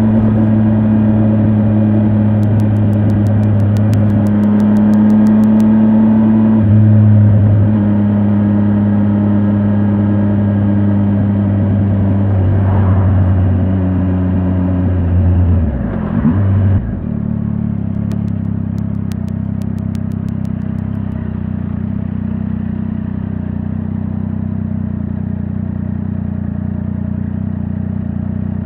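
Triumph Tiger 800 XRT's three-cylinder engine running at steady revs under way. Its pitch wavers and drops a little over halfway through, and it then runs lower and quieter.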